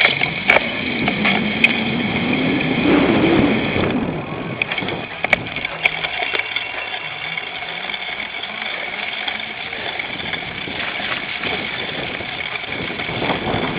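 Cyclocross bike ridden at race pace over rough ground: a steady rush of wind and tyre noise, with sharp knocks and rattles of the bike and camera mount over bumps.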